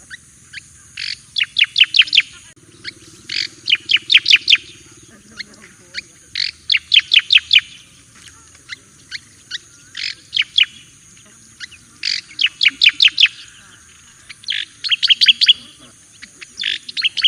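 Cica-koreng jawa (striated grassbird) singing: short phrases of rapid, loud chirping notes, each about a second long, repeated every two to three seconds.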